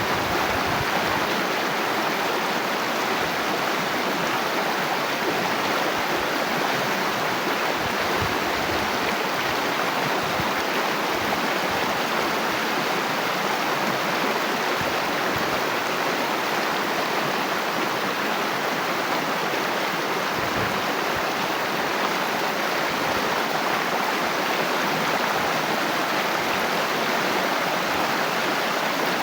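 Water flowing steadily in a stream or irrigation channel, a continuous rushing and gurgling without a break.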